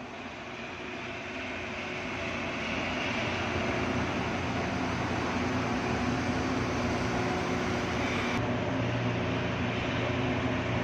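Steady mechanical hum and noise with a few low steady tones. It builds over the first few seconds and then holds level, and its high part drops off abruptly about eight seconds in.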